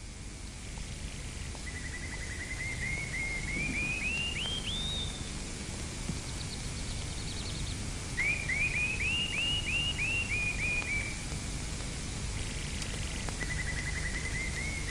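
A bird calling in three phrases of short repeated notes that climb in pitch, each phrase lasting about three seconds. Faint chirps from another bird come between the first two phrases, over a low, steady outdoor hiss.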